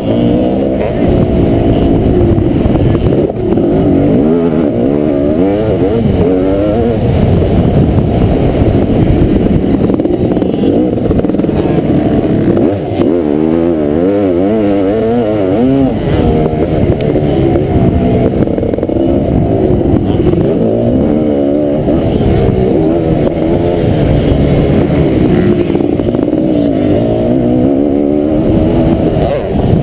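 Kawasaki KX500 two-stroke single-cylinder motocross engine being ridden hard, its pitch rising and falling over and over as the throttle opens and closes.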